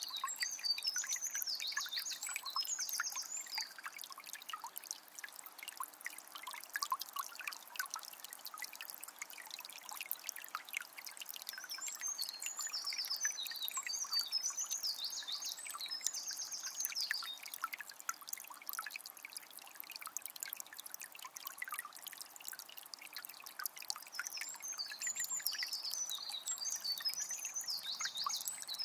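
Forest stream trickling and splashing steadily. A songbird sings three bouts of a high, chattering song: near the start, in the middle, and near the end.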